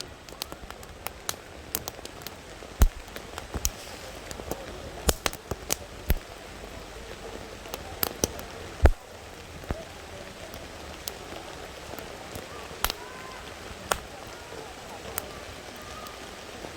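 Wood fire crackling: irregular sharp pops and snaps over a steady hiss, with a few louder pops, one about three seconds in and one about nine seconds in.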